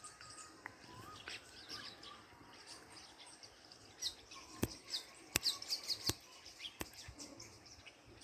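A pet parrot chirping in short, high, falling chirps. Several sharp clicks or taps come about halfway through and are louder than the chirps.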